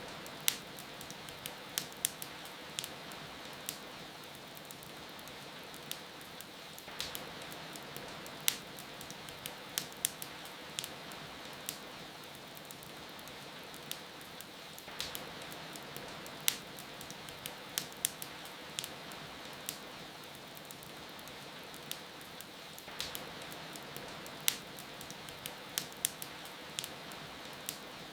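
Wood fire crackling, with frequent sharp pops at irregular intervals, over a steady hiss of rain.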